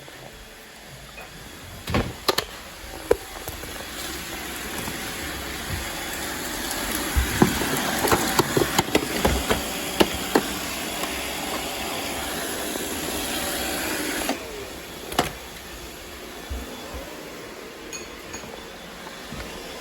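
Robot vacuum running, with scattered clicks and rattles as it picks up confetti; its motor noise cuts off suddenly about 14 seconds in.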